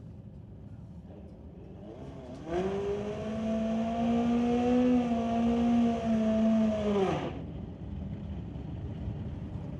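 Drag-racing motorcycle engine revved up and held at high revs for about five seconds, then let off and cut.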